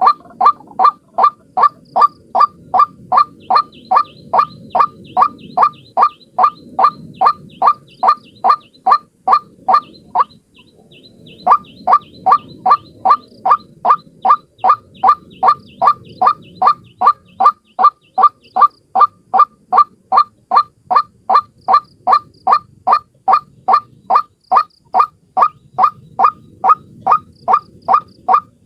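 White-breasted waterhen (ruak-ruak) calling: one loud note repeated over and over, about two and a half a second, with a break of about a second near the middle. This is the bird's lure call, used to draw waterhens in.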